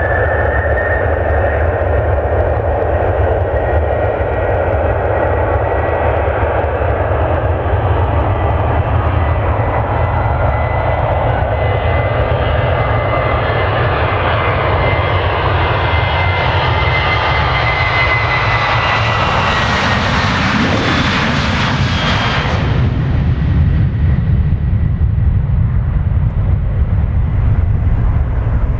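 Boeing 737-800's CFM56 turbofan jet engines, a steady whine over a broad roar. The roar grows louder as the jet draws closer, peaks about three-quarters of the way through, then its high hiss falls away sharply as it passes. A deep rumble continues throughout.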